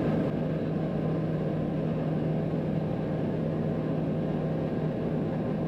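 Cessna 182's piston engine and propeller droning steadily in cruise, with an even hum and no change in power.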